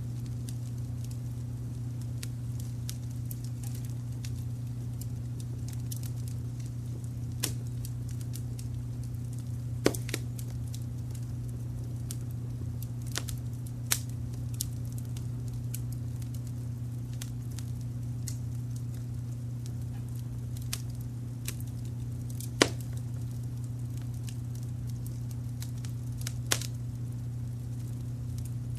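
Wood fire crackling with scattered sharp snaps and a few louder pops, over a steady low rumble of brown noise.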